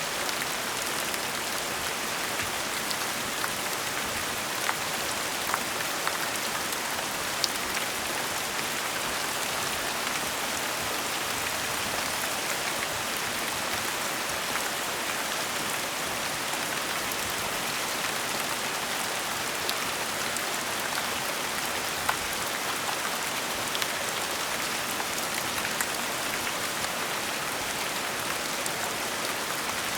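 Gentle steady rain falling on a surface, an even hiss with scattered single drops ticking now and then.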